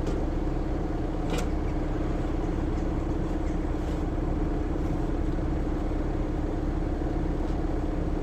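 Tractor engine running steadily at a constant speed, with one brief click about a second and a half in.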